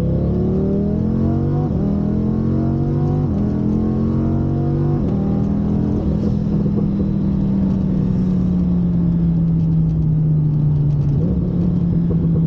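Twin-turbo Lamborghini Huracán's V10 engine accelerating hard through the gears: the pitch climbs and drops back with each of four quick upshifts in the first six seconds. After that the engine pulls steadily with the pitch sagging slowly, and it steps up once near the end.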